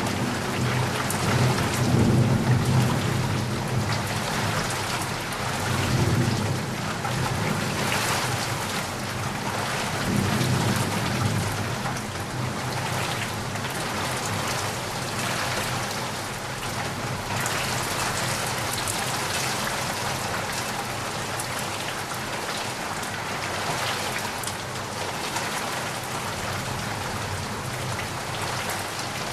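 Heavy rain falling steadily, with low rumbles of thunder in the first ten seconds or so that then die away, leaving only the rain.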